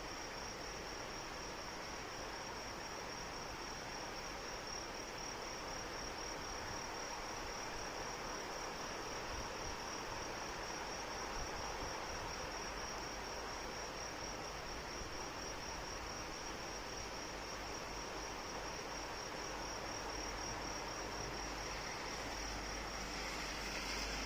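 Steady rain hiss with insects trilling continuously in one high, even, finely pulsing note over it.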